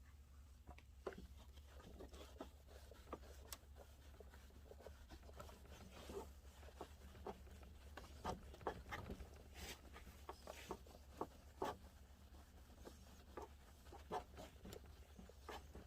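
Faint, irregular rubbing, scratching and light taps of a cloth wiping compound residue off a plastic car headlight lens, over a steady low hum.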